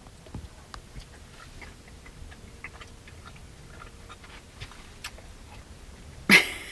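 Someone eating pasta: faint scattered clicks of a utensil on a dish and quiet chewing. A voice starts near the end.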